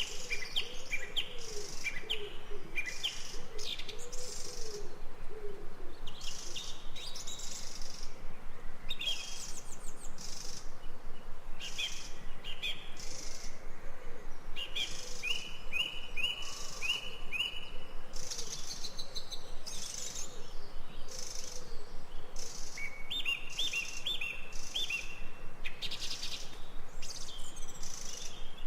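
Several birds calling in a jungle soundscape: repeated runs of short, high chirps, with a lower warbling call in the first few seconds.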